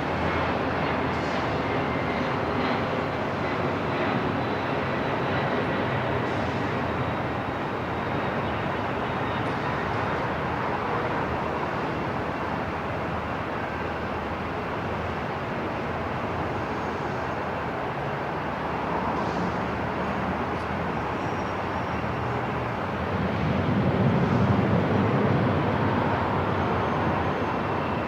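Airport ambience: a steady, dense rumble of noise, with a deeper rumble swelling up for a few seconds near the end.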